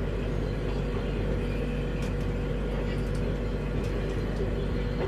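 Electric passenger train running: a steady low rumble and electrical hum, with a few sharp clicks and knocks.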